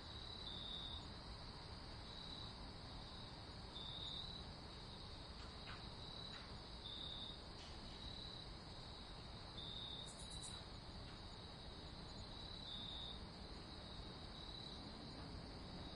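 Crickets chirping at night: a steady high trill with short chirps repeating about every second and a half, over a faint even hiss.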